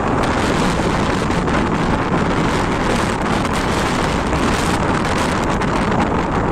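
Steady loud rushing noise inside a passenger jet's cabin, engines and airflow blended together, with scattered faint crackles and rattles throughout.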